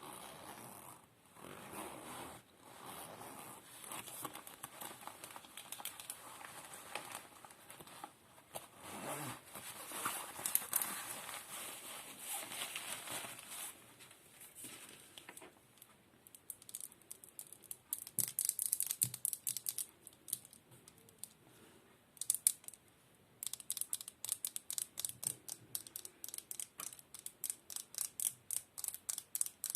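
Close-miked ASMR trigger sounds: crinkling and rustling for about the first half, then sharp, high clicks or taps that settle into an even run of several a second near the end.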